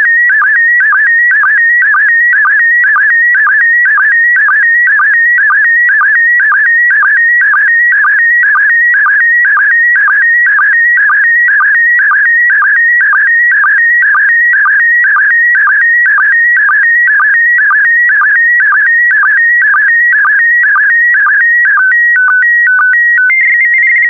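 Slow-scan television (SSTV) image transmission in PD120 mode: a loud, warbling stream of audio tones that sweeps around 1.5–2 kHz in an evenly repeating line-by-line pattern as the picture is sent. Near the end the warble gives way to a few short held tones stepping between two pitches, and then the transmission cuts off sharply.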